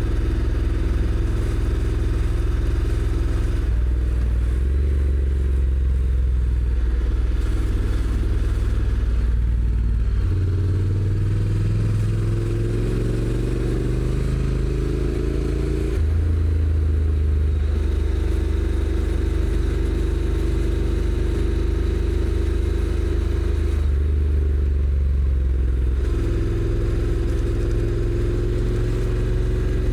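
Honda NC750X's 745 cc parallel-twin engine on the stock exhaust, under way. It runs at steady revs for stretches. About a third of the way in the revs rise for several seconds, then drop suddenly, with another change in pitch later.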